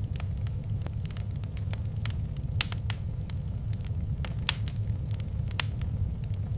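Wood fire crackling in a fireplace: irregular sharp pops and snaps, three of them louder than the rest, over a steady low rumble of the burning fire.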